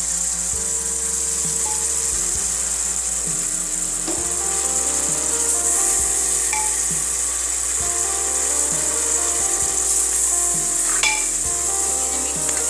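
Spiced tomato masala sizzling in a steel pot as fresh greens and cooked chana dal are stirred in with a ladle. Soft instrumental background music plays throughout.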